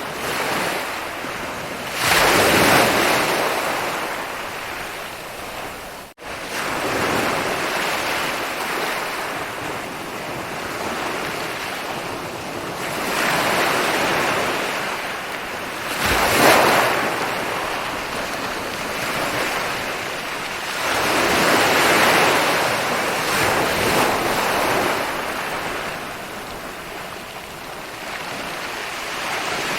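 Ocean waves rolling in and breaking on a beach, the surf swelling and easing every several seconds. A brief dropout in the sound about six seconds in.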